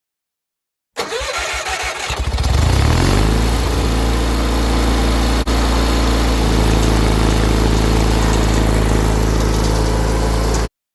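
John Deere 317 garden tractor engine cranked over by the starter for about a second. It catches, picks up speed and settles into a steady run.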